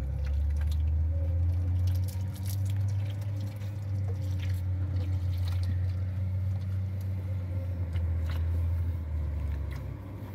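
Used engine oil draining from a Komatsu D85SS bulldozer's engine, a steady low rush with scattered small clicks, stopping shortly before the end.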